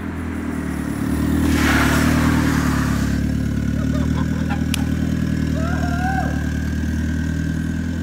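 Turbocharged Honda B20 engine running steadily under load, growing louder about a second in. There is a brief rushing hiss at about a second and a half.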